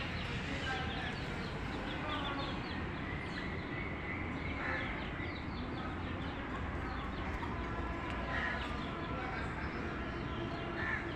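Birds chirping: many short, high chirps repeating over a steady background noise.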